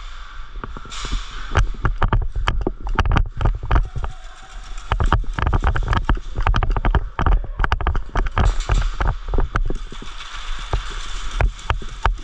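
Rapid, irregular sharp clicks and knocks over low thumps and a steady hiss.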